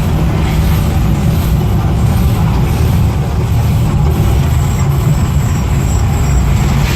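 A loud, steady low rumble, heaviest in the deep bass, with no clear pitch or rhythm.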